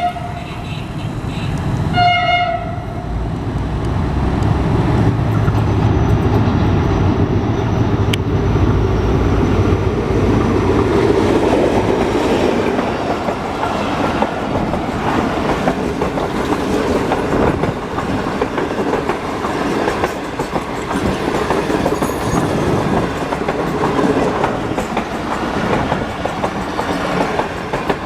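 A Pakistan Railways HGMU-30 diesel locomotive sounds a short horn blast about two seconds in. The train then passes, its low engine rumble giving way to steady wheel and rail noise with clickety-clack.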